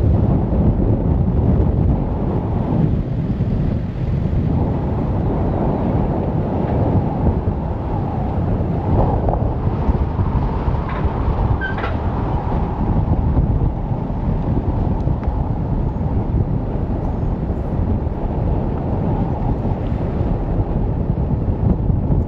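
Land Rover driving along, a steady rumble of engine and road noise with wind buffeting the microphone.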